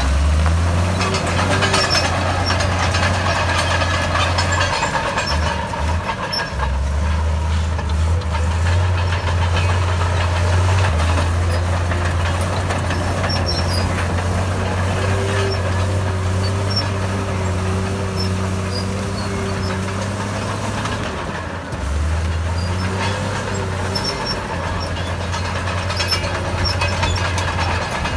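Komatsu D68B bulldozer's diesel engine running under load, a loud low drone whose pitch shifts several times as it works.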